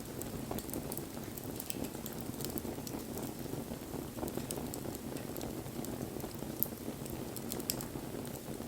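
Wood bonfire burning: a steady low rush of flame with scattered sharp crackles and pops from the burning wood, one louder pop about two-thirds of the way through.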